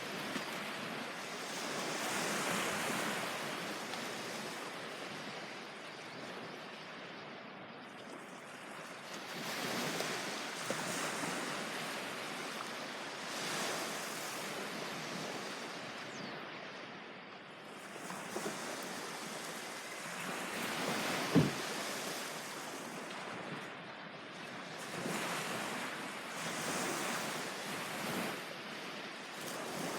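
Ocean waves breaking and washing up on a beach, surging and falling back every few seconds, with some wind. A single sharp thump comes about two-thirds of the way through.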